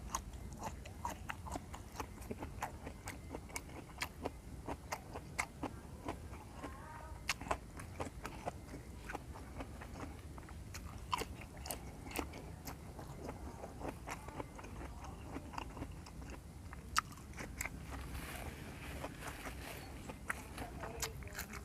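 A person chewing raw vegetables (lalapan) with the mouth close to the microphone: irregular crisp crunches and wet mouth sounds, several a second.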